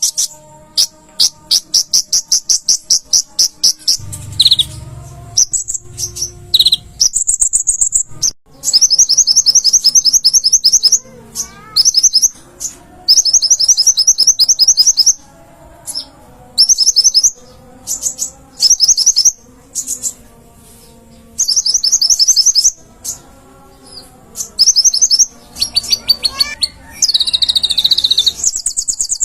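A kolibri ninja (konin) sunbird singing: loud, rapid high-pitched trills in repeated bursts of a second or more, broken by short whistled notes.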